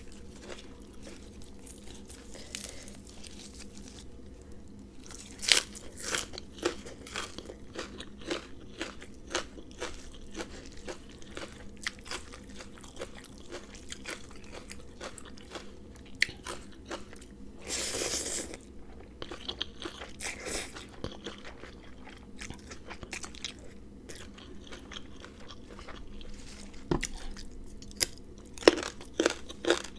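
Close-up chewing and crunching of a spicy rice-noodle salad with shrimp and raw vegetables, with irregular sharp bites and crunches and one longer, noisier sound about eighteen seconds in.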